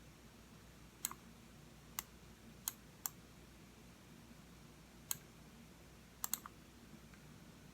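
Computer mouse button clicking: seven sharp single clicks at uneven intervals, the last two a quick double-click, over a faint steady hum.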